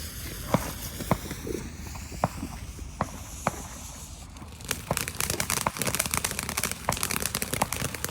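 Ground firework fountain spraying with a steady hiss and a few sharp single pops, then breaking into dense, rapid crackling about five seconds in.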